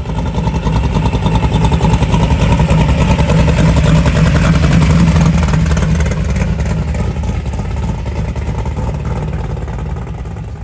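A loud vehicle engine running with a low, rapidly pulsing exhaust note, growing louder to a peak about halfway through and then slowly fading, as of a car passing close by.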